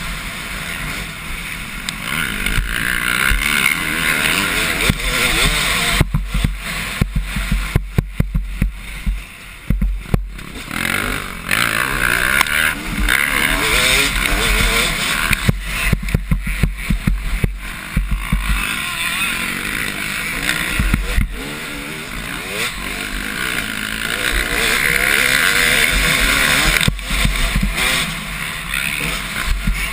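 Motocross bikes racing, their two-stroke engines revving up and down as they pass, with wind buffeting the microphone in gusts.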